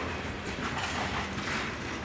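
Railroad cars rolling past, their wheels clacking over the rail joints in a rough repeating rhythm over a steady rumble.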